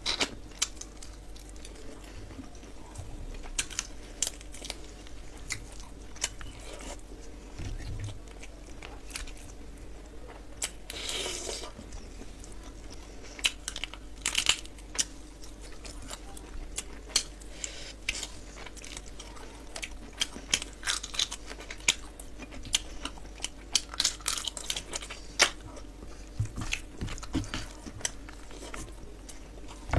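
A person chewing and biting into chicken and rice with crispy fried onions: irregular crunches and short sharp mouth clicks, one after another.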